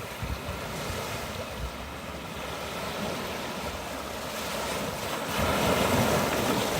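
Sea waves washing on the shore, with wind buffeting the microphone; the surf grows louder about five seconds in.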